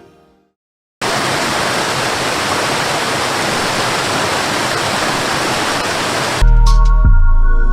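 Steady rushing of a waterfall, starting abruptly about a second in after a brief silence. Music with a heavy bass cuts in near the end.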